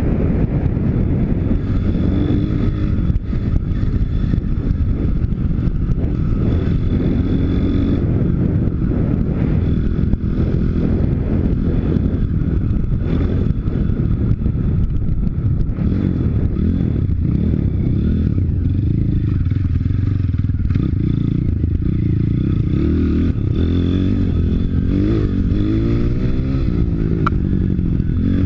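Pit bike's YX 160 cc four-stroke single-cylinder engine running while riding, the revs rising and falling as the throttle is worked, with the swings strongest near the end.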